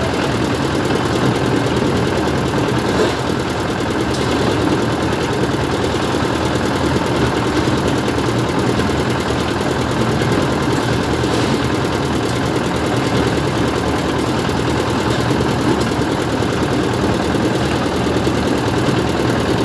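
An engine running steadily at a constant speed, idling with no change in pitch.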